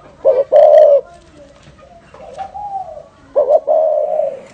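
Spotted dove cooing in the 'thổ rền' style: a short coo and a longer one near the start, a softer coo in the middle, and a long coo near the end.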